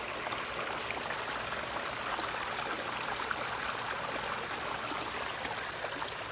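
Small backyard pond waterfall spilling steadily into the pond: a constant splashing and trickling of water, with fine droplet patter throughout.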